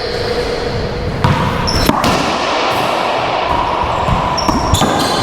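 A racquetball rally: several sharp cracks of the ball striking racquets and court walls, clearest about a second in and again near two seconds and near the end, echoing in the enclosed court over a steady background hiss.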